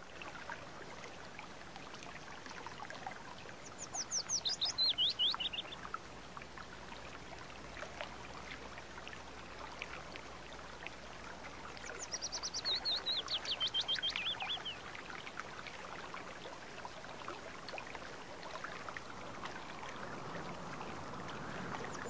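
A small mountain stream running softly with faint splashes and trickles, and a songbird singing twice, about four seconds in and again about twelve seconds in: each time a rapid run of high, repeated notes that steps down in pitch over about two seconds.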